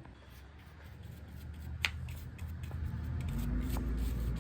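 Small clicks and handling noises of workshop tools and parts, with one sharper click about two seconds in and a low hum building in the last second or so.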